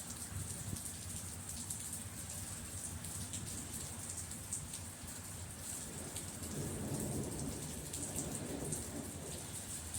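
Steady rain falling, with many small drop ticks. About six seconds in, a low rumble of thunder swells and then fades near the end.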